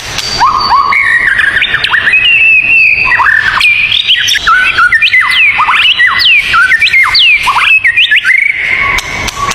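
Songbirds singing, a dense unbroken run of clear whistled notes and quick swooping chirps that rise and fall, with a few sharp ticks mixed in.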